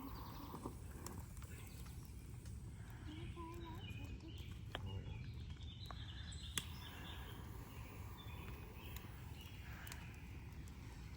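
Outdoor ambience with a steady low rumble. Faint scattered bird chirps and a few isolated sharp snaps or knocks sound over it, one louder snap a little past halfway.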